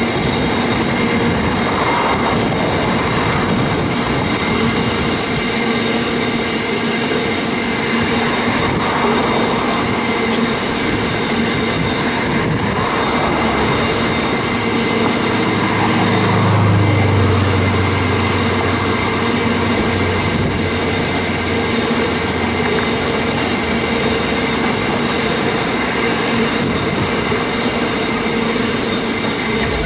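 A CBH grain train's loaded hopper wagons rolling past: a steady loud rumble of steel wheels on rail, with a few thin, steady high tones over it. A low hum swells for several seconds about halfway through.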